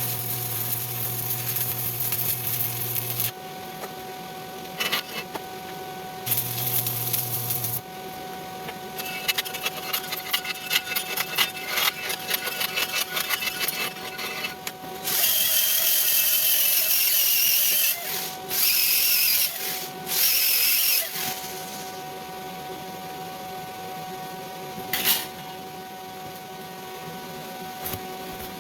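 Sped-up stick welding with the arc crackling. The sound changes every few seconds between bursts of crackle and loud hissing tool noise.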